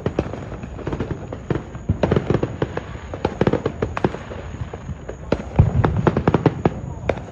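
Consumer fireworks popping and crackling in rapid clusters of sharp reports: a burst about two seconds in, another around three and a half seconds, and a longer run from about five and a half seconds.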